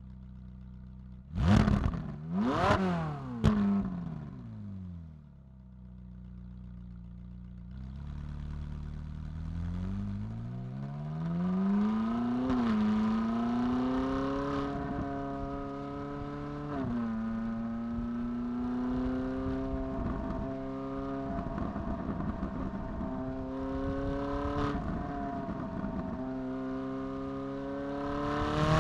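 Ferrari 458 Italia's naturally aspirated 4.5-litre V8 idling, then blipped a few times in quick succession, each a sharp rise and fall in pitch and the loudest moments. After settling back to idle it pulls away, revs climbing steadily, then runs at moderate revs with a sudden drop in pitch at an upshift and small throttle changes, revs rising again near the end.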